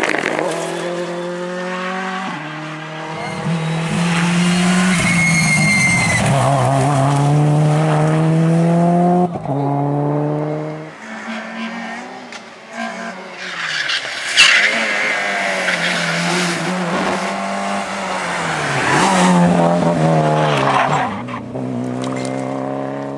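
Rally car engines revving hard, pitch climbing and dropping again with each gear change, over tyre and gravel noise. A single sharp crack about halfway through.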